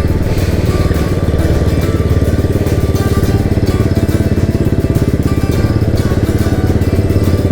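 Motorcycle engine running steadily at cruising speed, its firing pulses even throughout.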